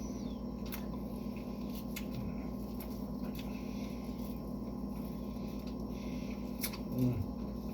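Quiet eating and food handling by hand: a few faint clicks and taps over a steady low hum. About seven seconds in, a short low 'mm' from the eater.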